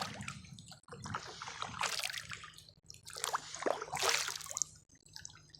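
Kayak paddle strokes: the blades dipping into the water and water splashing and trickling off them, in several separate swells, the loudest a little past the middle.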